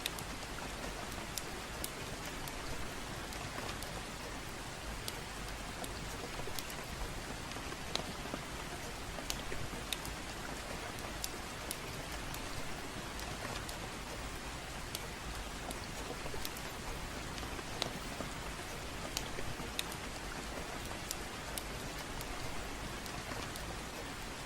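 Steady gentle rain falling, with scattered sharp crackles and pops from a wood fire in a fireplace.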